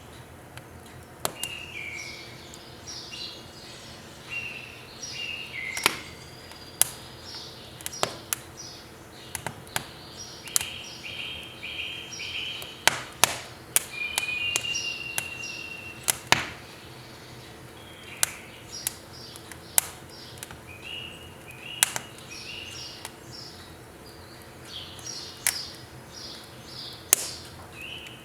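Burning firewood in a wood stove crackling, with sharp pops at irregular intervals, some loud. Small birds chirp and twitter in short repeated phrases throughout.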